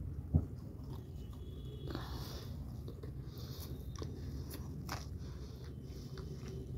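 A person biting into and chewing crinkle-cut French fries close to the microphone, with wet mouth clicks scattered through the chewing. A single sharp thump about half a second in is the loudest sound.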